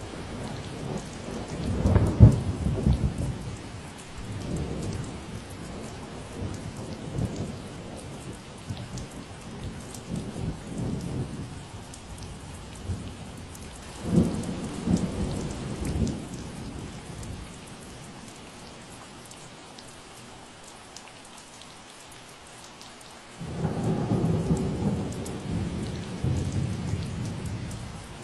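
Steady rain falling, with several low rumbles of thunder: a loud one about two seconds in, another around fourteen seconds, and a long one starting suddenly near the end.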